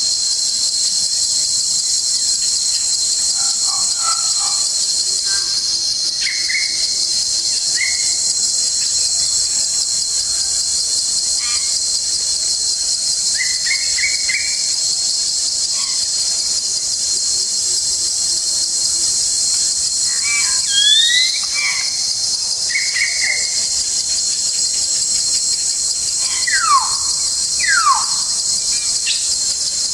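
Steady, high-pitched buzzing chorus of forest insects, with scattered bird calls over it: short chirps, a rising whistle about two-thirds of the way through, and two loud falling whistles near the end.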